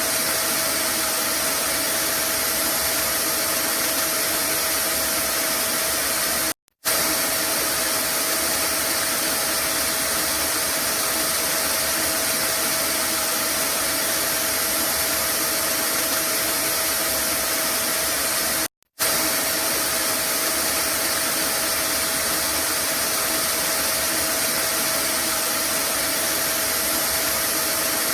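Vacuum cleaner running steadily: an even rushing noise with a faint steady whine. It cuts out twice for a split second, about a quarter of the way in and again about two-thirds through.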